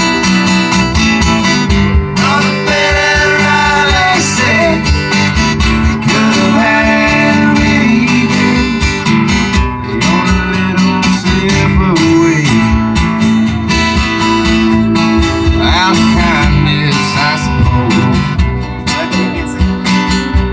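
Acoustic guitar strummed in a steady country rhythm as an instrumental break between sung verses, with a melody line bending up and down over the chords at times.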